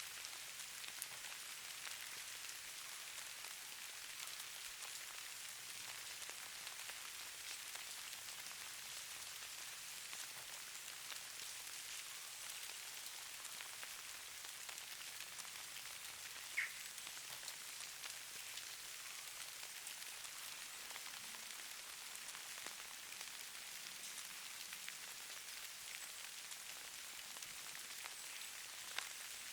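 Steady, fairly soft hiss of falling precipitation pattering on a surface, dotted with fine ticks, with one sharper tick a little past halfway.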